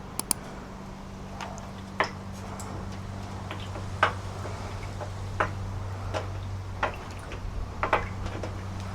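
Scattered light drips and taps of water as turmeric-dyed papers are dipped and moved in a tub of warm baking-soda water. Roughly one small click a second over a steady low hum.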